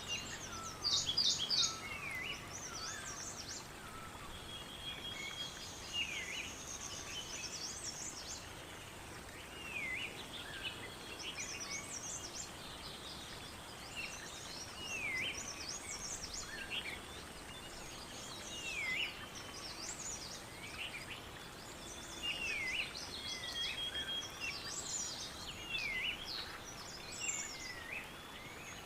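Several birds singing and calling over a steady background hiss. One bird repeats a short swooping call about every two seconds, while others add quick high trills and chirps.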